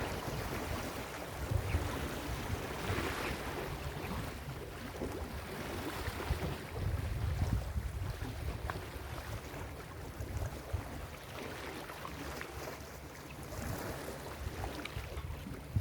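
Ocean surf breaking and washing onto a beach, swelling and easing in surges, with wind rumbling on the microphone.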